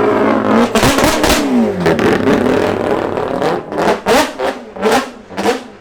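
Four-rotor rotary engine in a Mazda RX-7 dropping from high revs, with sharp pops and cracks as the revs fall, then blipped on the throttle in quick, short revs about twice a second in the second half.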